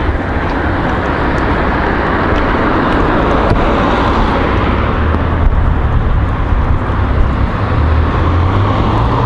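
Steady road traffic noise from cars going by on the street.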